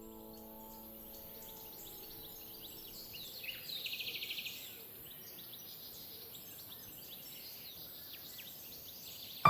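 Garden ambience with scattered small bird chirps and a rapid trill lasting about a second, around three and a half seconds in.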